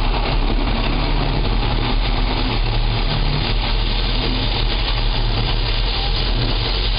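Automatic car wash's high-pressure water jets and machinery spraying the van, heard from inside the cabin as a loud, steady rushing with a low rumble.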